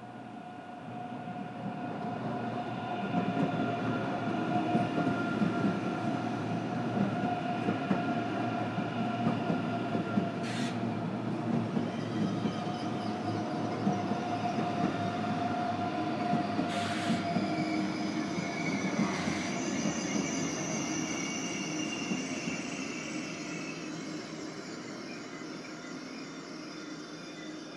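ICE 3 high-speed train running into the station and braking: the rumble of its wheels comes with a steady high-pitched wheel and brake squeal. It grows louder over the first few seconds, and two sharp clicks come through in the middle. Higher squeal tones join about two-thirds of the way in, then it fades toward the end.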